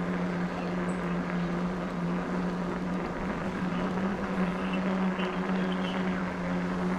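Electric bike motor humming at a steady pitch, over a constant rushing noise.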